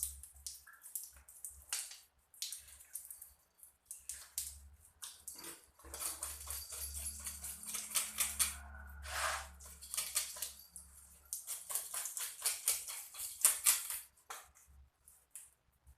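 A knife scraping and cutting at a fish while it is being cleaned, in runs of quick strokes, busiest through the middle and pausing near the end.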